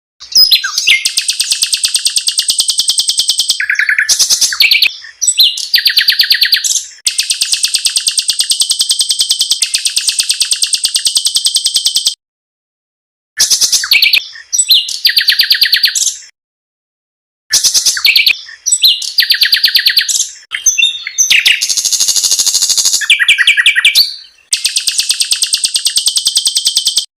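Small songbirds singing rapid, harsh, high-pitched trills in long rolling phrases of several seconds each, broken by short completely silent gaps.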